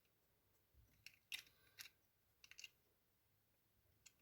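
Near silence broken by a few faint, short clicks and taps: small parts of a diecast toy car, its windscreen and interior, being handled and fitted together.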